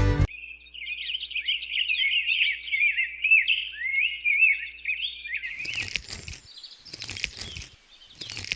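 Birds chirping in a quick, busy run of short twittering calls for about five seconds. This gives way to three short, noisy whooshing bursts, each about half a second long, in the last few seconds.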